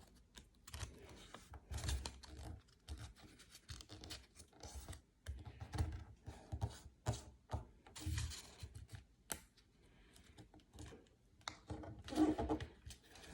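A sheet of A4 paper being folded and creased by hand: irregular rustles and scrapes with a few soft knocks.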